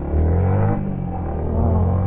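Yamaha MT-15's single-cylinder engine accelerating hard in first gear, its pitch climbing, easing briefly about a second in, then climbing again.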